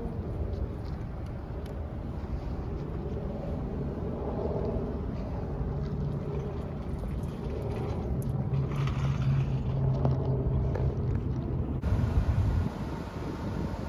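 A vehicle engine running with a steady low rumble. A stronger low droning note comes in about eight seconds in and cuts off about twelve seconds in.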